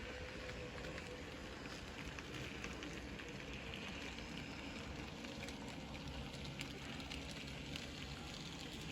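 N gauge model freight train running on the layout: a steady, faint crackling rattle of small wheels on the rails, with many tiny clicks.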